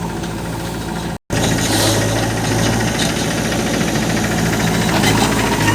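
Diesel engine of heavy farm machinery running steadily at a low, even hum. The sound breaks off for an instant about a second in, then carries on slightly louder.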